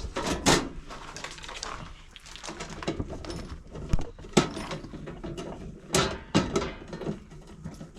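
Sheet-metal dead front cover of an electrical sub panel being handled and fitted back onto the panel, making a string of separate knocks and clanks.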